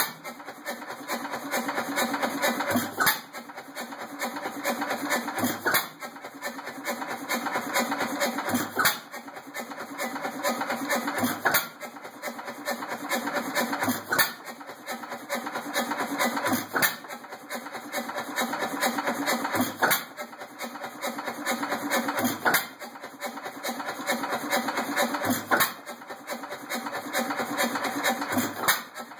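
1913 4 hp Myrick hit-and-miss oilfield engine running, firing with a sharp bang about every three seconds and coasting with a steady mechanical run between: the hit-and-miss governor skipping fire strokes at light load.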